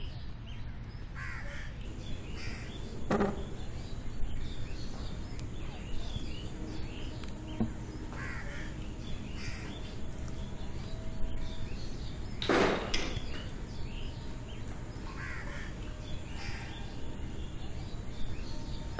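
Birds calling now and then over a steady low hum, with two louder calls about three seconds in and just past the middle.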